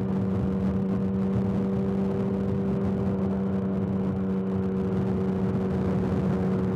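Motorcycle engine running at a steady highway cruising speed, one unchanging hum with no revving, over the rush of wind and road noise.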